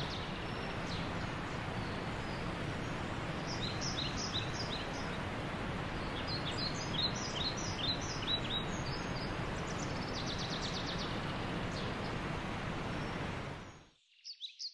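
A steady hiss runs under the scene and cuts off suddenly just before the end. Over it, birds give several runs of quick, high, falling chirps.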